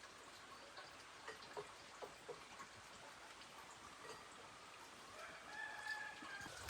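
Faint chickens clucking, with a few soft clicks and a longer call near the end.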